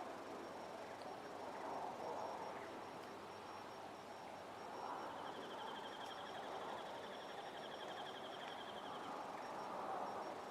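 Quiet outdoor ambience: a soft rushing hiss that rises and falls, with a fast, high trill lasting about four seconds in the middle.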